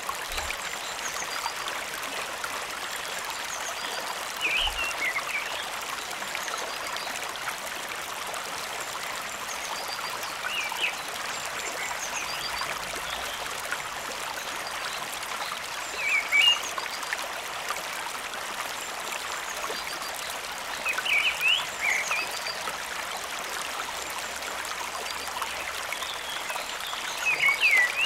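Steady rush of flowing stream water, with a short chirping animal call repeating about every five or six seconds over it.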